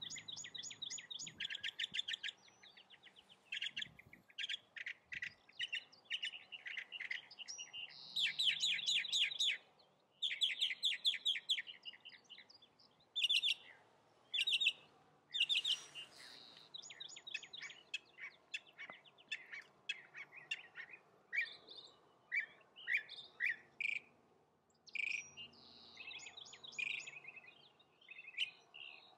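Songbirds singing: repeated series of rapid, trilled chirps, several songs following and overlapping one another with short pauses between.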